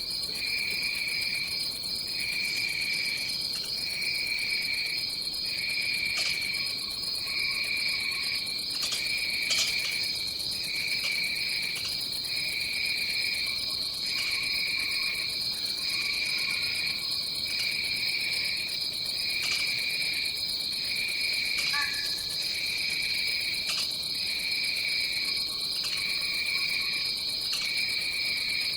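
Rainforest insect chorus: a continuous high-pitched drone of insects, with a lower chirring call that repeats in regular pulses about once a second, and faint lower calls now and then.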